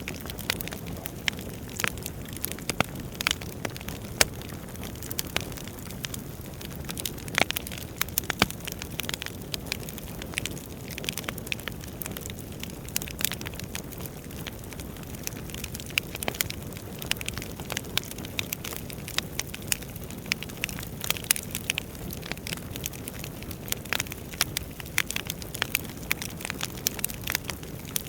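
Wood fire burning in a fireplace: a steady low rush of flame with frequent sharp crackles and pops from the burning logs.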